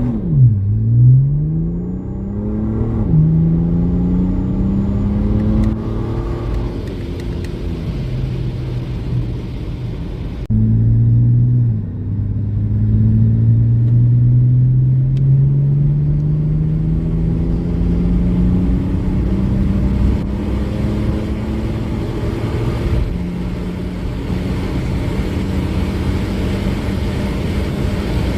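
Stage 3 tuned BMW 330d's 3.0-litre N57 straight-six diesel under full-throttle acceleration. Its note climbs through the gears and drops at each upshift of the six-speed automatic, then makes one long rise in a high gear and levels off near the end.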